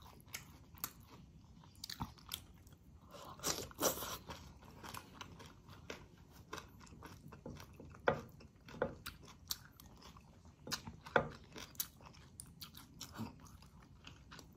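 Close-miked eating sounds: a person chewing and smacking on mustard greens and chicken in coconut-milk sauce, with scattered wet mouth clicks and a busier run of chewing about four seconds in.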